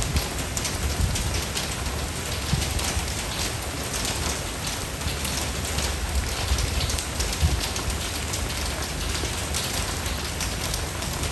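Steady rain falling, an even hiss of many drops, with a constant low rumble underneath and a few brief low thumps.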